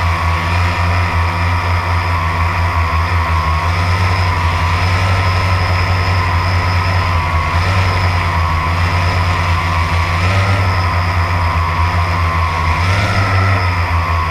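Drone's propellers humming steadily, a whine with a slight wavering in pitch that rises briefly about ten seconds in and again near the end.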